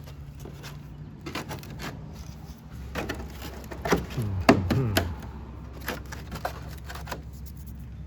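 Clicks and knocks of parts and tools being handled, with a short creaking squeal falling in pitch about halfway through, over a steady low hum.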